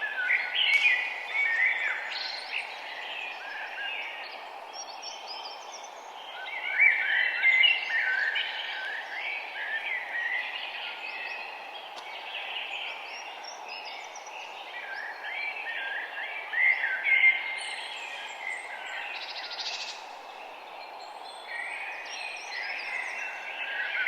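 A dawn chorus of several songbirds chirping and trilling over one another, over a steady low hiss of background noise.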